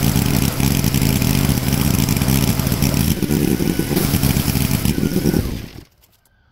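Kohler CV18S 18 hp Command V-twin engine of a Craftsman GT garden tractor running steadily at speed. The sound stops about five and a half seconds in.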